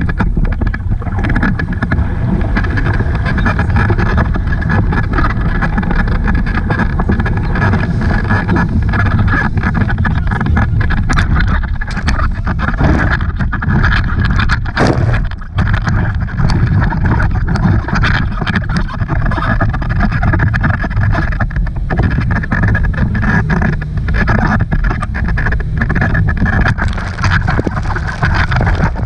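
Tow boat's engine running steadily, with wind buffeting the microphone as the boat moves over the water.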